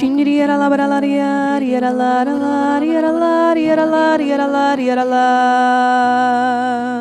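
Slow devotional singing: a single voice holding long notes that shift pitch every second or two, over soft sustained accompaniment.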